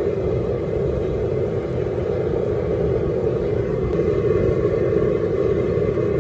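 Propane burner running at high flame under a large pot of boiling water: a steady, unbroken rushing noise.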